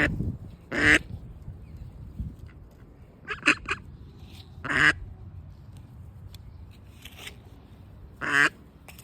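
A duck quacking: loud single quacks every few seconds, with a quick run of three short quacks in the middle.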